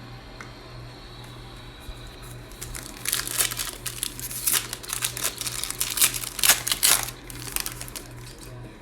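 Trading card pack wrapper crinkling as it is handled and opened: a run of dense crackling from about three seconds in, lasting about four seconds.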